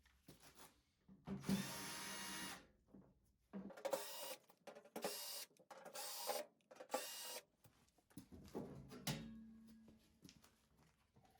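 Electric screwdriver motor running in short bursts while unfastening screws: one run of about a second and a half, then four shorter runs in quick succession. A few clicks and a knock follow near the end.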